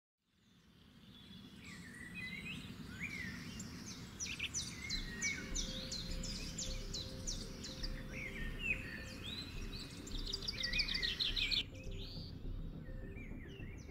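Birds chirping and trilling, with many short calls and quick runs of notes, over low background noise. It fades in from silence over the first couple of seconds.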